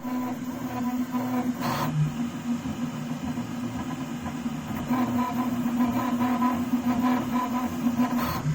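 Prusa CORE One 3D printer running, its stepper motors giving a steady whine of several held tones, with the squeaking sound that the machine makes while printing. A short rushing swish about two seconds in and again near the end.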